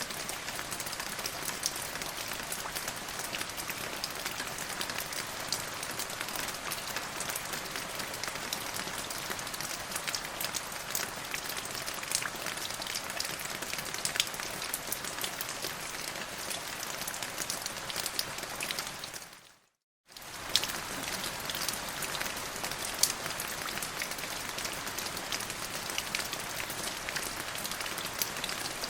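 Steady rain falling on a surface: a dense, even patter with many separate drop ticks. About two-thirds of the way through it fades out to a moment of silence and fades straight back in.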